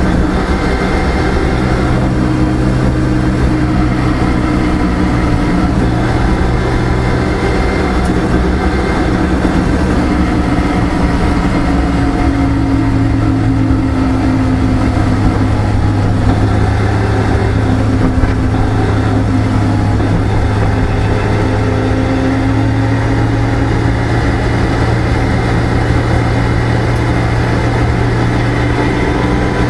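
Rally car's engine running steadily on the road, heard inside the cabin with tyre and road noise, the engine note rising and falling a few times as the car changes speed.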